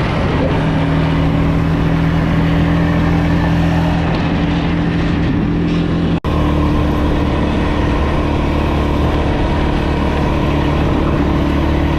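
Motorbike engine running at steady revs, one unchanging drone. About six seconds in it cuts out for an instant, then the same steady drone carries on.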